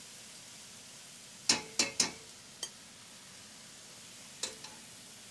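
Sharp metallic clinks of kitchenware as cooked rice noodles are drained in a noodle basket: a quick run of three about a second and a half in, then a few lighter clicks.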